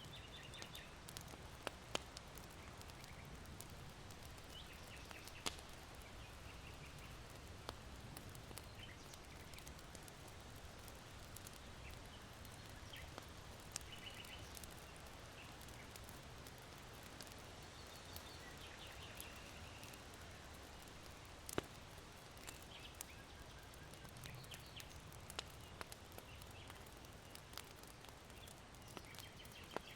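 Charcoal fire in an irori hearth crackling faintly, with scattered sharp pops, while small birds chirp in short bursts every few seconds over a low wind rustle.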